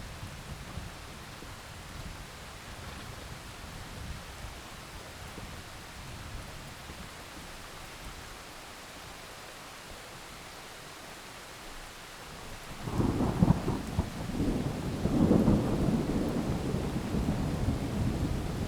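Steady heavy rain, then thunder breaks suddenly about two-thirds of the way through and rolls on loudly in swelling rumbles.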